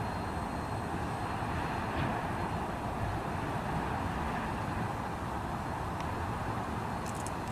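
Autorack freight cars rolling over the track: a steady rolling noise of steel wheels on rail, with a few faint clicks.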